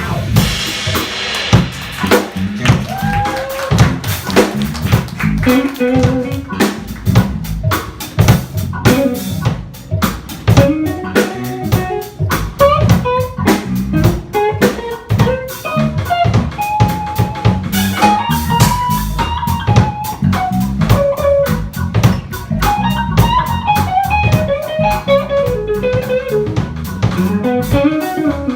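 Live jazz band playing: a drum kit keeps up busy strokes under a winding guitar melody, with bass underneath.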